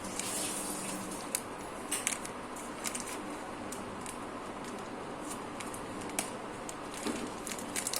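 A few scattered light clicks and handling noises from fingers working at a stuck flour container, trying to get it open, over a steady background hum.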